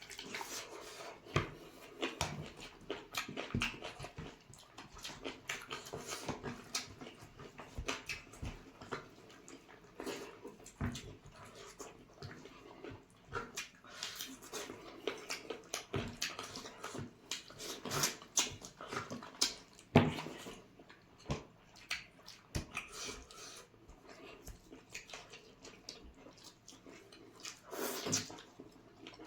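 Close-up eating sounds of chicken curry and rice: chewing and lip smacking in irregular clicks, with a few louder smacks.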